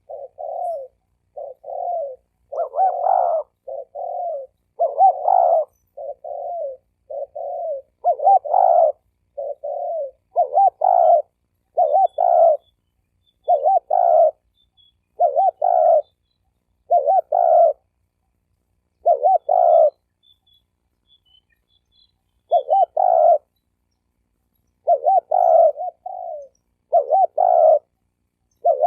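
Spotted dove cooing: a steady run of short, low coo phrases, about one a second, with a pause of a few seconds past the middle.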